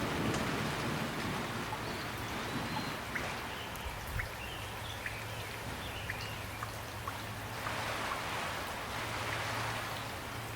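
Steady calm rain falling, an even hiss with scattered individual drops ticking. Faint high chirps come through between about three and six seconds in.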